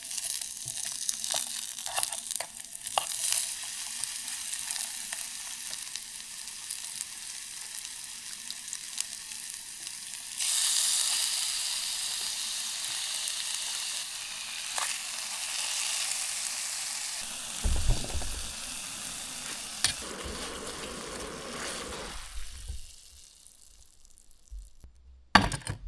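Marinated skirt steak and bell peppers sizzling in a hot pan, with scattered clicks of stirring. The sizzle grows louder about ten seconds in, a few low knocks come near the end, and then it drops away.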